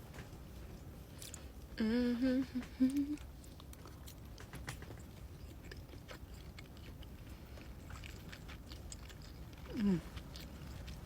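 A woman chewing noodles close to the microphone, with faint scattered clicks of chewing. About two seconds in she hums an appreciative "mmm" for about a second, and near the end gives a short falling "mm".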